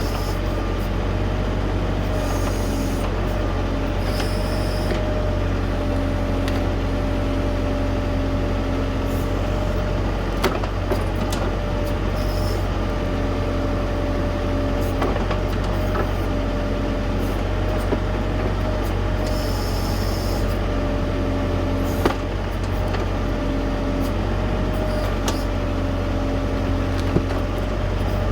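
Tractor diesel engine running steadily while working a backhoe, with a steady whine over the engine drone. A mid-pitched tone comes and goes repeatedly, there are a few brief hissing squeals, and there are occasional sharp knocks, loudest at about 10 and 22 seconds in.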